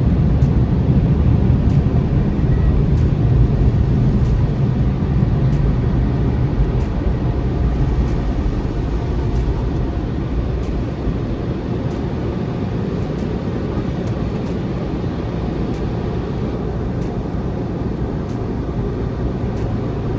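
Automatic car wash air-dryer blowers blowing on the car, heard from inside the cabin: a loud, steady rush of air with a low rumble, easing off a little about halfway through.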